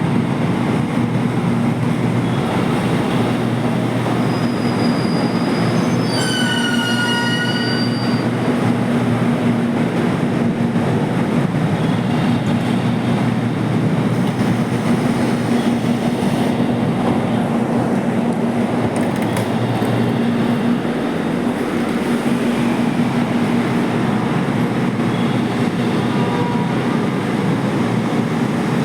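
Steady running noise of a JR Kyushu 787 series electric express train, heard from inside the passenger car. A brief high squeal of the wheels comes about six seconds in.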